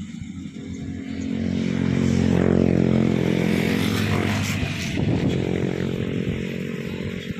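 Engine of a vehicle running close by, with a steady hum that swells over the first couple of seconds and eases off toward the end.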